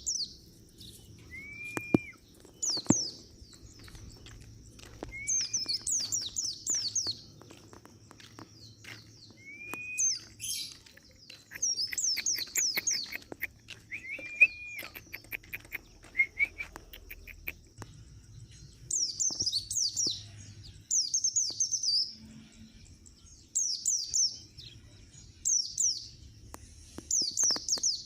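White-eye (pleci) song: repeated short bursts of very high, quick, falling twittering notes with brief gaps between them. A few short slurred whistles, pitched lower, are heard in the first half.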